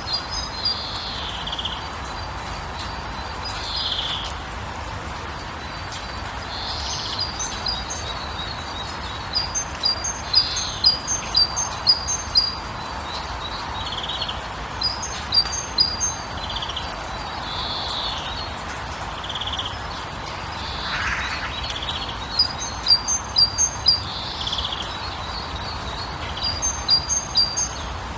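Several birds singing: quick series of short, high chirps repeated every few seconds, with lower smeared calls between them, over a steady background hiss.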